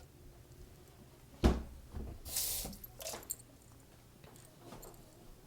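Kitchen handling sounds: a single heavy thump of something being set down about a second and a half in, then a short hissing rustle and a few light clicks.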